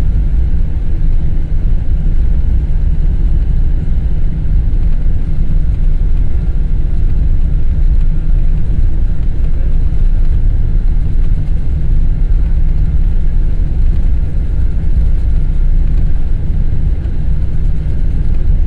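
Cabin noise of a Boeing 777-200ER taxiing: a steady, loud, low rumble from the engines at taxi power, unchanging throughout.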